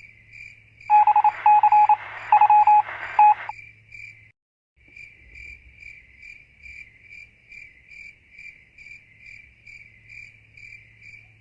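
Cricket chirping sound effect, a steady run of evenly spaced chirps. About a second in, an electronic robot sound effect of short, loud beeps and buzzing runs for about two and a half seconds. The chirping cuts out briefly around four seconds in and then resumes.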